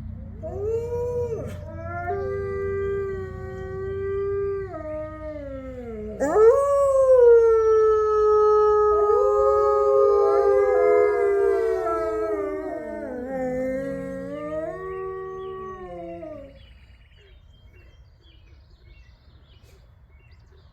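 A pack of gray wolves howling in chorus: several long, overlapping howls at different pitches, one sweeping sharply upward about six seconds in and loudest. The chorus dies away about three-quarters of the way through.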